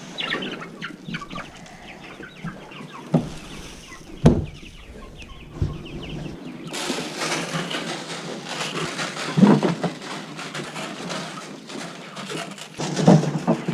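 Hens clucking and calling around the feed, with a few dull knocks in the middle and a steady rustle from about seven seconds in.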